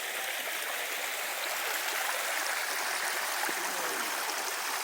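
Running water: a steady, even rushing.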